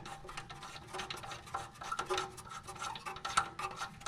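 Small metal clicks and scraping as steel exhaust studs are threaded in by hand, irregular light taps and rubs throughout.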